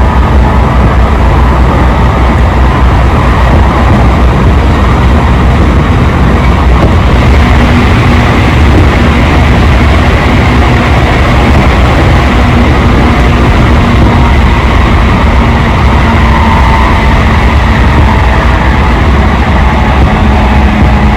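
Inside a train car running between stations: a steady, loud low rumble of the wheels and running gear, with a faint steady hum over it.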